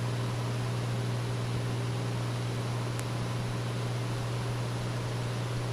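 Cessna 206's six-cylinder piston engine and propeller droning steadily, heard inside the cockpit as a constant low hum under a hiss of wind and engine noise.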